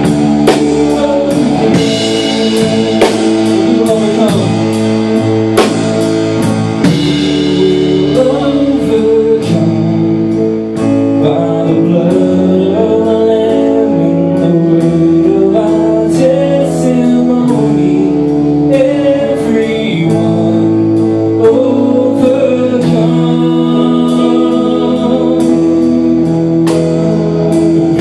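Worship band music: a drum kit keeps a steady beat under guitar and sustained chords, with some singing.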